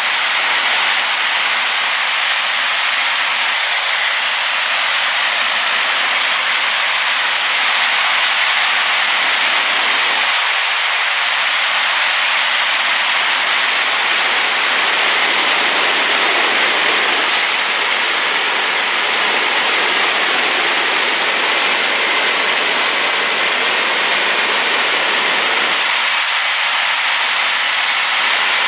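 Waterfall pouring heavily, a steady loud rush of falling water swollen with rain runoff.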